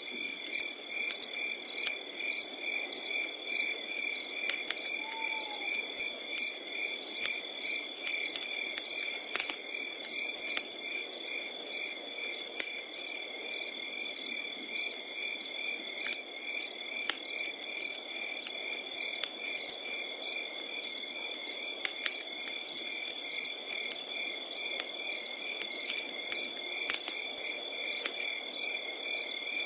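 Crickets chirping in a steady rhythm, about two chirps a second over a constant high trill, with a wood fire crackling in scattered sharp pops.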